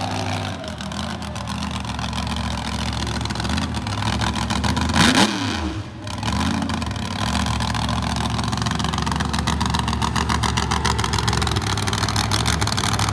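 Monster truck engine running steadily, with a quick rev up and back down about five seconds in.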